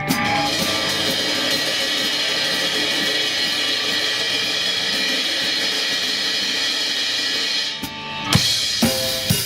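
Drum kit played along with a backing track: a steady cymbal wash rings over the song's held chords for most of the time. It drops away briefly near the end, then sharp drum hits start a beat.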